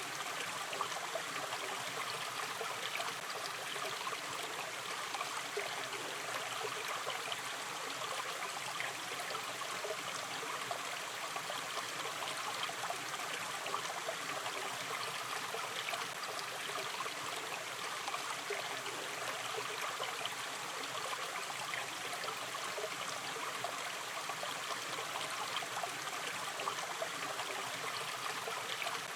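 A gently flowing river stream, its water running and trickling steadily with fine bubbling detail.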